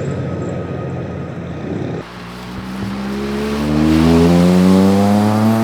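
Loud exhaust of modified cars: a rough, crackly engine note, then after an abrupt cut about two seconds in, a car accelerating hard with its engine pitch climbing steadily.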